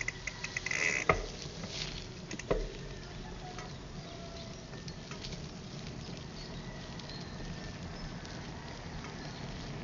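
Bicycle rattling over a rough, muddy road surface: a run of small clicks and rattles, two sharp knocks in the first few seconds, then a steady rolling rumble.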